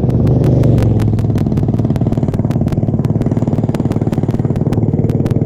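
Small mini bike engine running steadily, swelling briefly about half a second in, with a regular rapid ticking, about five or six clicks a second, over it.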